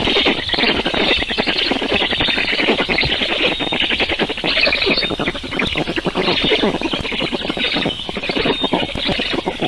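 Birds calling in a loud, dense, continuous chatter of rapid overlapping calls.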